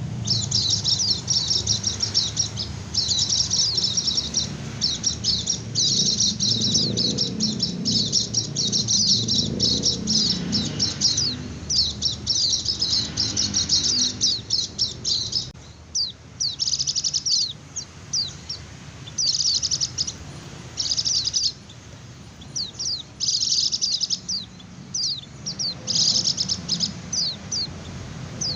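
White-eye (pleci) singing its rapid, high-pitched twittering 'ngecir' song, a lure call for other white-eyes. The chirps pour out in a near-unbroken stream for about the first half, then break into short bursts and single notes.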